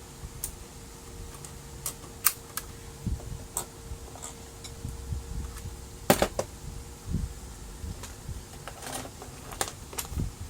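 Scattered sharp clicks and taps of plastic laser-printer parts being handled and fitted during a repair, the loudest about six seconds in. A faint steady hum underneath stops at about that point.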